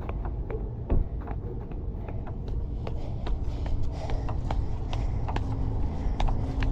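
Footsteps on concrete: irregular short taps, a couple a second, over a steady low rumble.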